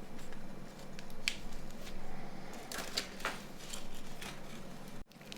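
Small plastic clicks and handling noises from phone parts being fitted together by hand, with one sharper click about a second in and a few more around three seconds.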